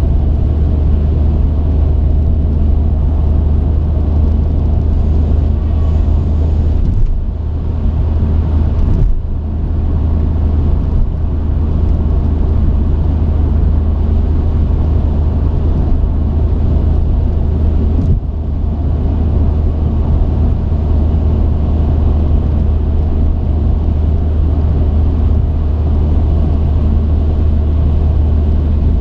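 Truck engine and road noise heard from the cab: a steady low drone, with brief dips about seven, nine and eighteen seconds in.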